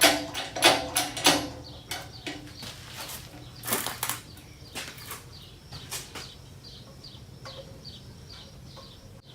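A quick run of clattering knocks, then one louder knock about four seconds in and a string of light ticks, over a faint low steady hum.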